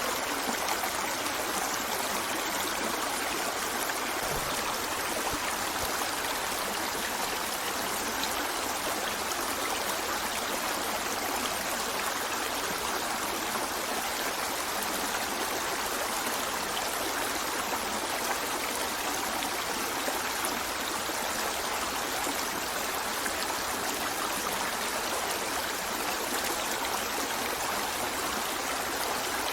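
A river running over stones: a steady, even rush of flowing water with some trickling and gurgling.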